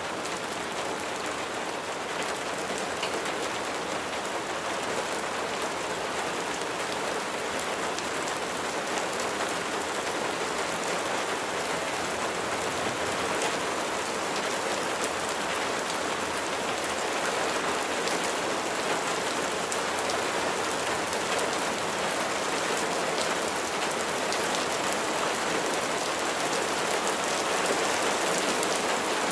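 Steady rain falling, a dense even patter of raindrops on a surface, growing slightly louder toward the end.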